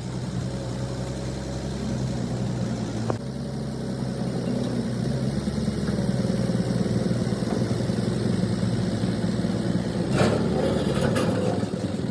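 An engine idling steadily with a low hum, with a sharp click about three seconds in and two short clattering bursts near the end.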